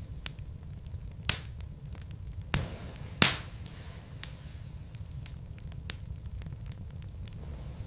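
Wood fire crackling in a fireplace: a low steady rumble of flames with scattered small snaps and three louder pops in quick succession from about a second in, the last the loudest.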